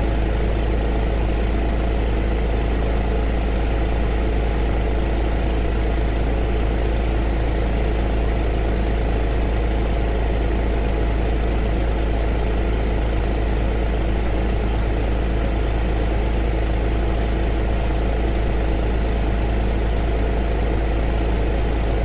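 Heater running steadily, used as white noise: an unchanging hiss over a strong low rumble, with a faint steady hum.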